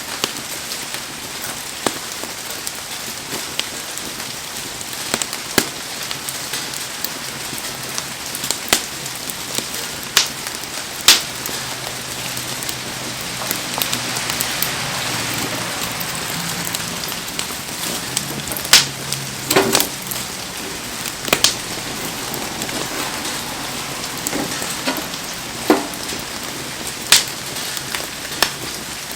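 Heavy rain falling steadily, swelling a little in the middle, with a bonfire crackling in it: a dozen or so sharp, scattered pops.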